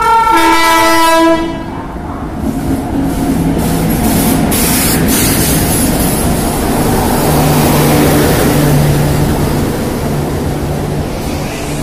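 Indian Railways electric locomotive's horn sounds loudly for about a second and a half, dropping in pitch partway through. It is followed by the steady rumble and rush of the passenger coaches passing at speed.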